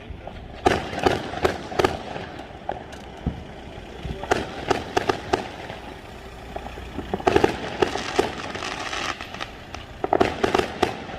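Fireworks going off: four bursts of quick sharp bangs and crackles, each about a second long and about three seconds apart.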